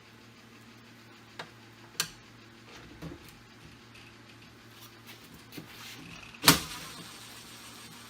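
A few sharp clicks and knocks, one about a second and a half in, one at two seconds, a small cluster near three seconds, and the loudest about six and a half seconds in, over a steady low hum.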